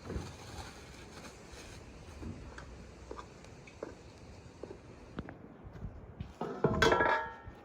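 Scattered light clicks and knocks, then a short, loud animal call about six and a half seconds in.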